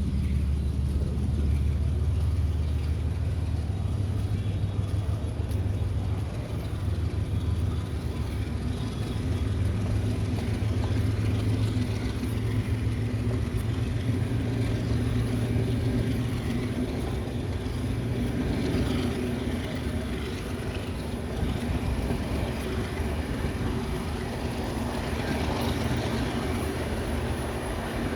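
Passenger train with Russian-built third-class coaches running: a steady low rumble with a continuous hum underneath.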